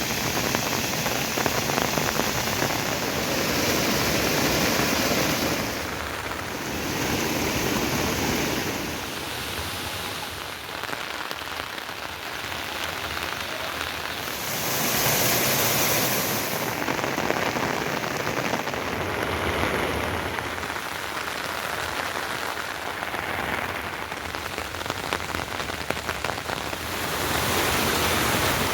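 Heavy rain falling steadily, its loudness swelling and easing every few seconds.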